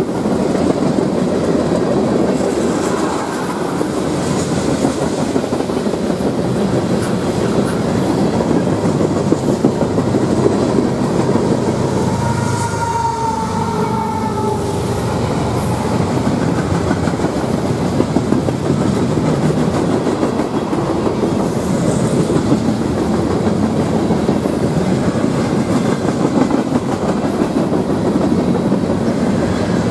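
Freight cars of a long train rolling past close by: a steady rumble with the clack and rattle of wheels on the rail, and a brief high tone about halfway through.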